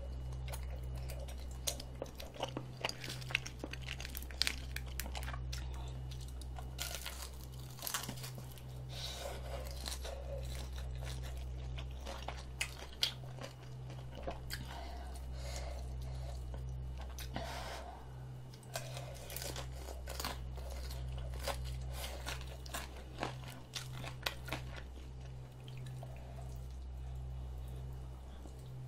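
A person chewing and crunching food close to the microphone, including crisp-skinned fried dumplings and chewy rice cakes, in repeated clusters of crackly bites, over a steady low hum.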